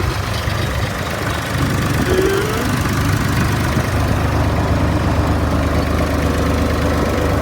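Case IH 485 tractor's diesel engine idling steadily with a low rumble.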